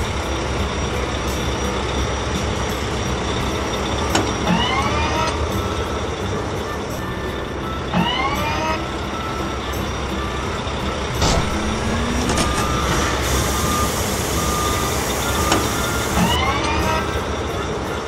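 Cartoon sound effect of a wheel loader's engine running steadily, with three short rising tones breaking in a few seconds apart.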